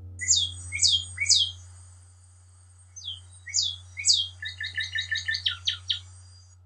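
A songbird singing clear whistled notes that slur downward, three in a row, then after a pause three more, followed near the end by a quick run of short repeated notes.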